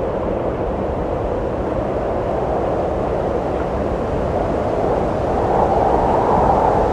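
Wind rushing steadily, a deep even blowing that swells into a stronger gust about five seconds in.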